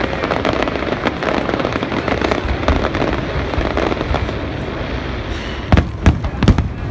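Fireworks going off: a dense stream of crackling pops, then a quick run of four or five sharp, loud bangs near the end.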